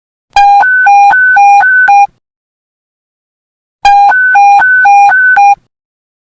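Police radio panic-button emergency alert tone: a loud electronic two-tone beep, alternating low and high about four times a second. It sounds twice, each burst lasting under two seconds, with a pause of about two seconds between.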